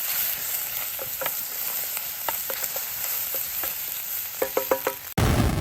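Food sizzling in a frying pan, with a metal utensil clicking against the pan now and then and a quick run of ringing taps about four and a half seconds in. About five seconds in it cuts abruptly to a loud rushing noise.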